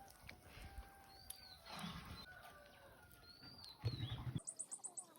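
Village outdoor ambience of birds calling: two short arched whistles, scattered chirps, and a quick run of about five high repeated notes near the end. A louder burst of noise comes about four seconds in.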